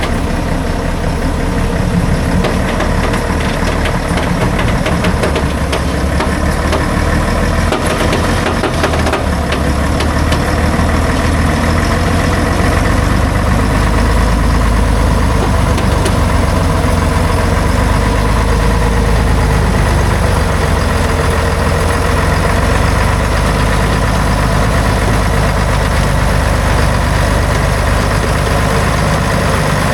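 Logging truck's diesel engine running steadily, with a cluster of knocks and rattles about eight to ten seconds in; it runs a little louder after that.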